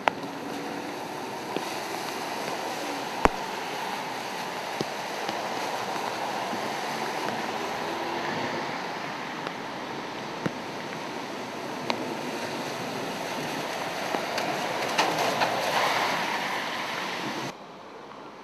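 Steady rain and the hiss of car tyres on a wet city street, swelling louder for a couple of seconds near the end, with a few sharp single taps scattered through it. The sound drops away suddenly shortly before the end.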